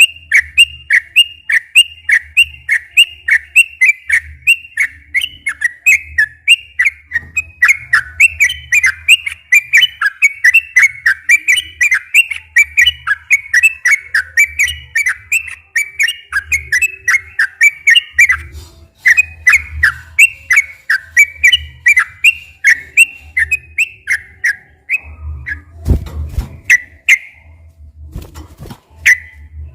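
Yellow-vented bulbul (trucukan) singing a long unbroken run of quick, bubbly whistled notes, several a second, in the long rolling song (ropel panjang) kept to stir other trucukan to sing. Near the end the run breaks up into a few separate notes.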